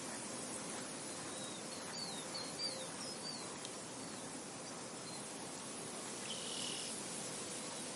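Soft steady wind through a field, with small birds chirping: a quick run of short chirps about two to three seconds in, and a brief buzzy call later.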